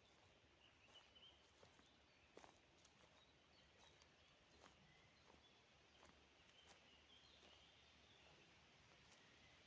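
Near silence: faint outdoor ambience with scattered soft clicks and a few faint, short, high chirps.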